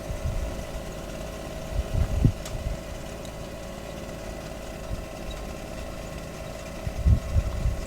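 An engine running at a steady speed, with wind buffeting the microphone about two seconds in and again near the end.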